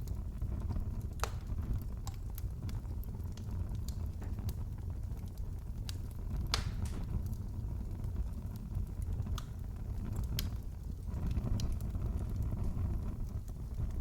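Wood fire crackling in a fireplace: scattered sharp snaps and pops, a few of them louder, over a steady low rumble.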